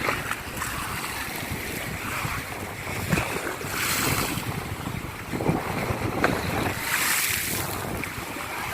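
Sea waves breaking on the shore, with wind buffeting the microphone; the surf swells louder a few times, most notably about four and seven seconds in.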